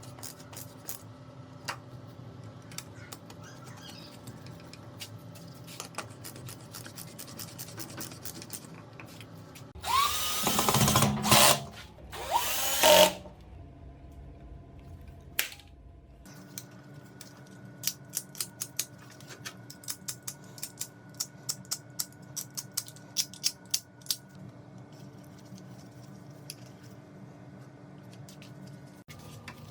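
A small electric power tool, drill-like, runs in two short bursts about ten seconds in, its motor pitch rising as it starts. Around it come light clicks and quick runs of small ticks over a steady low hum.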